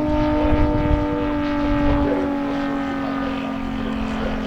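MOKI 250 radial engine of a quarter-scale RC Grumman F4F Wildcat running steadily in flight, its pitch drifting slightly lower, with wind rumble on the microphone.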